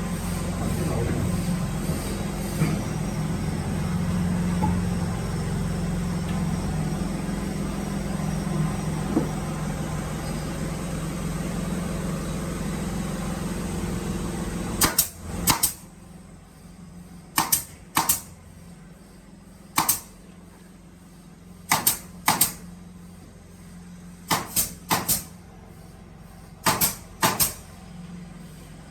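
A workshop machine, probably the drilling machine, runs with a steady hum and stops about halfway through. After it stops come about a dozen sharp knocks, mostly in close pairs, like wooden pieces being clamped or set in place.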